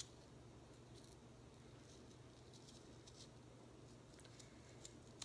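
Near silence with a few faint, short clicks from a knife cutting a raw potato spiral on a wooden skewer.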